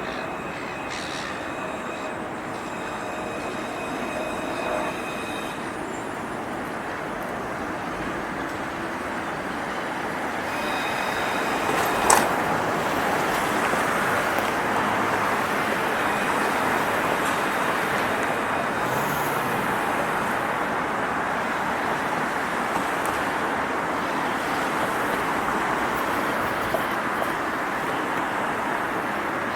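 Train running past on the rails, a steady rumble of wheels that grows louder about ten seconds in, with one sharp clack a couple of seconds later.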